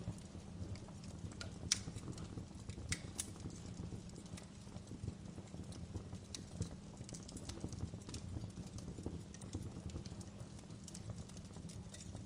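Wood fire crackling in a fireplace: irregular sharp pops and snaps, two louder ones about two and three seconds in, over a steady low rumble of the flames.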